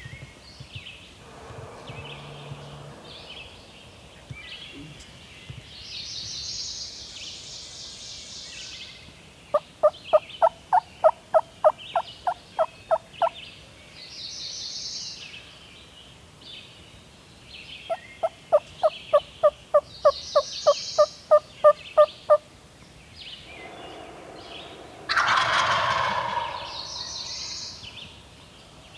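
Two long runs of turkey yelps, about four a second, then a single loud wild turkey gobble near the end. Small songbirds sing high phrases in the background.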